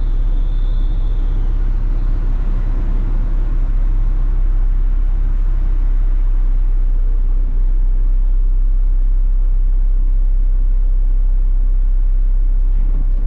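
Front-load garbage truck's diesel engine running steadily with a deep, even rumble.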